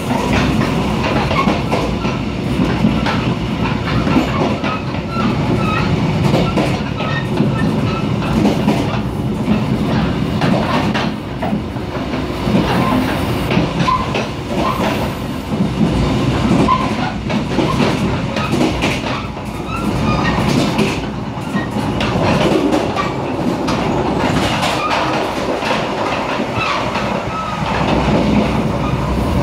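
Mugunghwa-ho passenger train running at speed, heard from inside a carriage: a steady rumble of wheels on rail, with frequent short clicks and knocks from the track.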